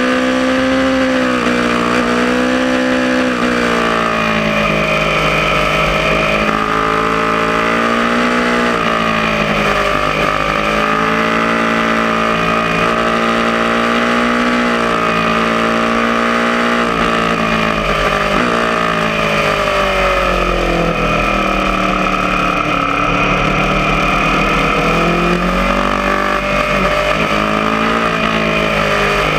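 Aprilia Tuono motorcycle engine under hard riding on a race track, its pitch climbing and dropping again and again as it accelerates, shifts and slows for corners, over a steady rushing hiss.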